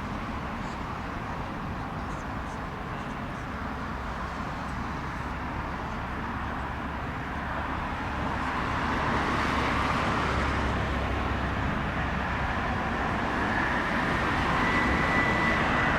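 Airbus A350-900's Rolls-Royce Trent XWB turbofans on approach to land: a steady engine roar that grows louder from about halfway, with a high engine whine coming in near the end.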